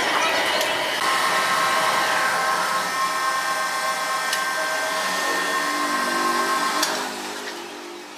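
Sawmill saw cutting through a log: a steady, loud, whining run with several held high tones over a rushing noise. It falls away about seven seconds in as the cut ends, with a sharp click or two along the way.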